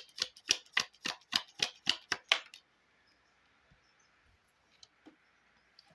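A deck of Lenormand cards being shuffled by hand: a quick, even run of crisp card snaps, about seven a second, that stops about two and a half seconds in, then a few faint ticks.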